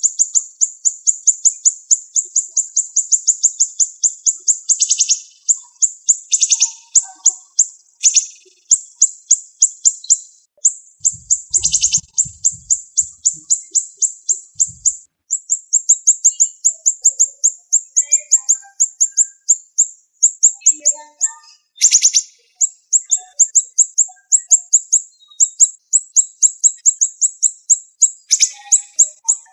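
Siri-siri songbird singing long runs of fast, closely spaced, high-pitched chirps. The runs break every few seconds, with a few sharper, louder notes mixed in.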